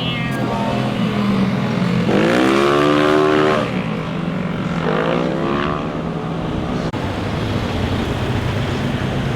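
Motorcycle engines revving as they ride past. One climbs in pitch and is loudest about two to three and a half seconds in, and a second comes about five seconds in, over a steady low engine hum.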